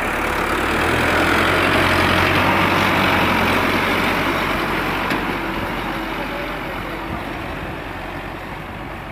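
Tractor's diesel engine running steadily, loudest about two seconds in and then gradually getting quieter.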